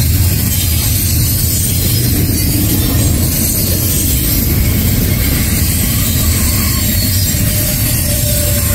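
Double-stack intermodal container train rolling past at close range: the steady, loud rumble and rush of its well cars' wheels on the rails.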